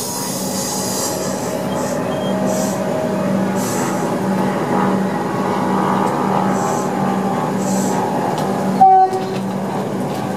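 Electric suburban train coming to a stop at the platform and standing with a steady electrical hum, with a few short hisses. A sharp, loud knock comes about nine seconds in.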